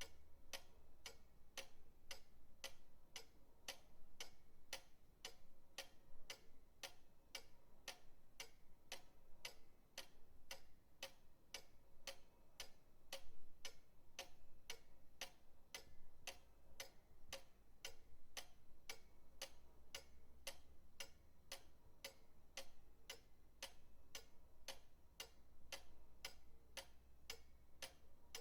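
Pendulum clock ticking steadily and evenly, about two ticks a second, with a faint low hum underneath.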